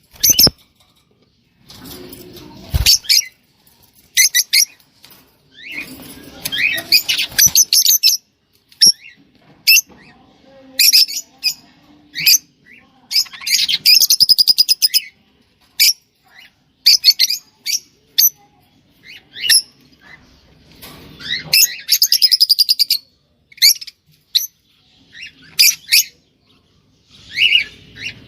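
Rosella parakeet calling: a long series of sharp chirps and whistles, broken by rapid warbling trills about a third of the way in and again after twenty seconds, with a few short stretches of rustling.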